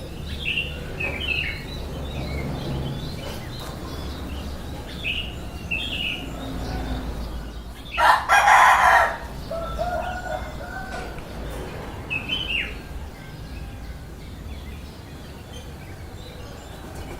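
Short, high, falling bird chirps repeated every few seconds, and a rooster crowing once, loudly, for about a second around eight seconds in.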